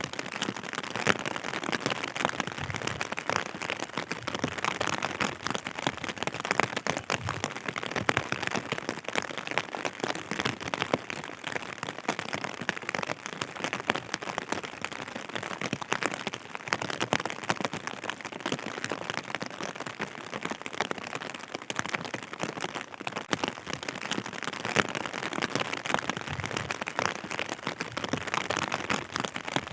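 Steady rain falling, a dense continuous patter of many small drop impacts.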